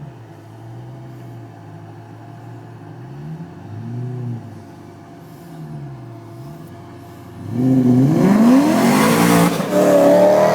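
Tuned BMW M3 engine idling with a couple of light throttle blips, then revved hard about seven and a half seconds in: the pitch climbs and the engine stays loud for about three seconds, with a brief dip, before dropping back.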